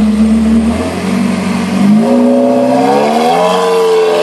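A performance car's engine accelerating hard. A steady engine note dips about a second in, then climbs from about two seconds in and holds high near the end.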